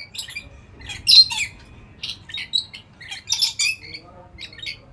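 A lory (nuri parrot) squawking and chirping in a rapid series of short, shrill calls, the loudest about a second in.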